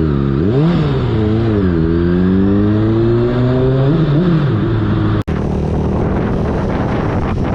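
Motorcycle engine revving up and down twice, then climbing steadily in pitch as it accelerates, with a quick up-and-down dip about four seconds in. After an abrupt cut a little past five seconds, a steady engine drone runs under heavy wind rush on the microphone.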